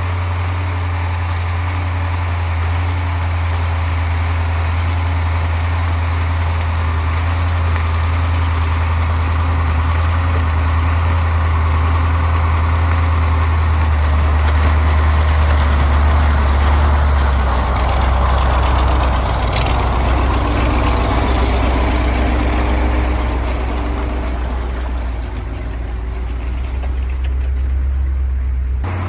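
1985 KAMAZ 4310 6x6 truck's V8 diesel engine running steadily while driving off-road, its low note dropping lower about two-thirds of the way through.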